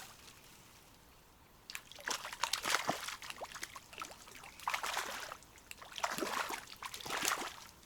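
Small hooked trout splashing at the water's surface as it is brought in, in three bouts of splashing.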